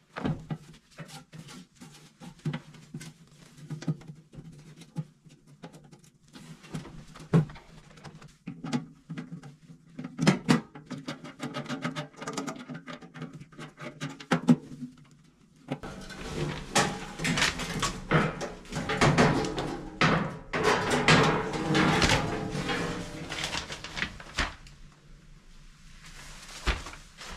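Hand tools and metal parts clicking and knocking against each other during boiler work, over a faint steady low hum. A busier, noisier stretch of handling runs from about 16 to 24 seconds in.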